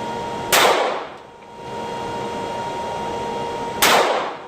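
Two gunshots about three seconds apart, each a sharp crack, from a firearm being fired at a range.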